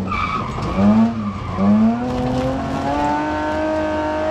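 BMW E30 rally car's engine heard from inside the cabin under hard acceleration. The revs dip at the start and blip briefly about a second in, then climb steadily for the last two and a half seconds.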